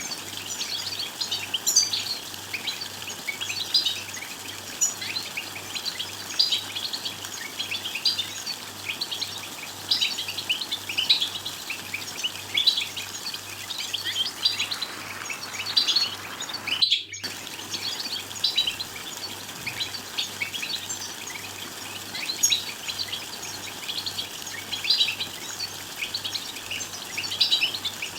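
Several European goldfinches twittering, a dense run of quick overlapping chirps and calls of the kind played to stir male goldfinches into song. The sound drops out for a split second about seventeen seconds in.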